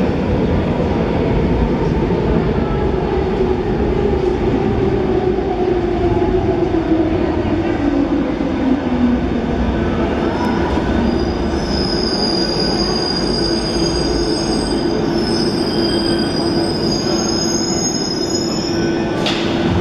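Metro train pulling into the station: its motor whine falls steadily in pitch as it slows over the first half, then holds a steady hum. High-pitched whines join about halfway in, and a sharp click comes near the end.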